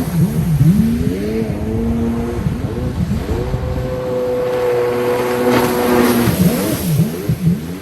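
Yamaha WaveRunner GP1300R's three-cylinder two-stroke engine revving up and down in quick throttle blips. It holds a steady pitch for about two seconds in the middle, then blips again near the end.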